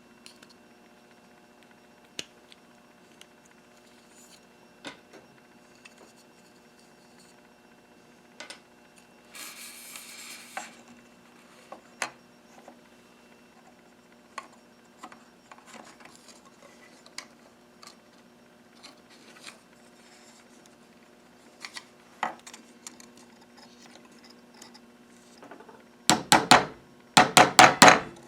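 Hand work on small pump organ parts: scattered light clicks and taps of wood and metal pieces being handled, a short hiss about ten seconds in, and a run of quick, loud scraping or rubbing strokes near the end.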